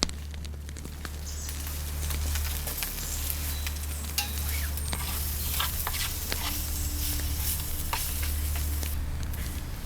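Food sizzling in a pan over a campfire, a steady hiss with sharp crackling pops scattered throughout.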